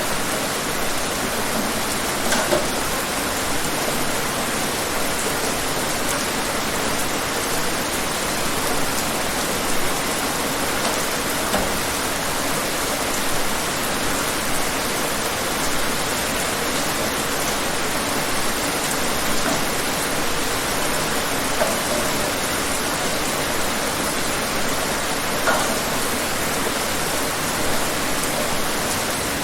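Steady rain falling, an even hiss with a few louder drop hits here and there.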